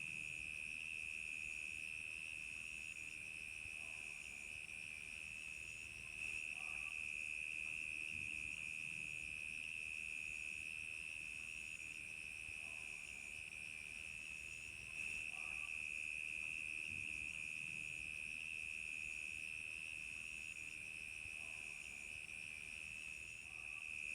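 Crickets chirping in a steady, unbroken high trill, with a second, higher chirp repeating roughly once a second.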